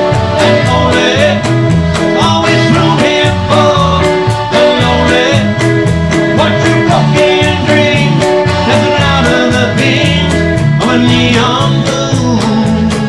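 Live band playing a song: guitar over bass and drums keeping a steady beat.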